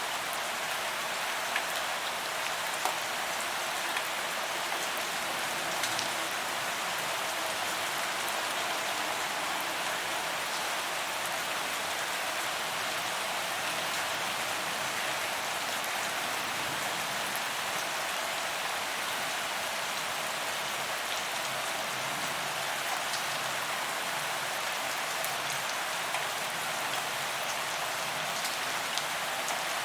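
Steady rain falling on pavement, an even hiss with scattered louder drop taps.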